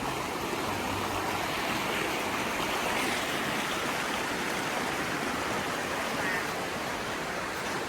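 Running river water, a steady even rush of flowing water.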